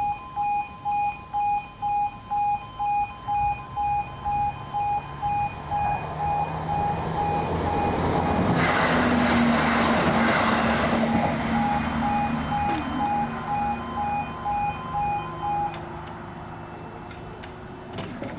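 E2S Appello level-crossing alarm beeping about twice a second while a Class 170 Turbostar diesel multiple unit passes, its rumble and rush building to a peak around the middle and then fading. The alarm cuts off near the end, leaving a few sharp clicks.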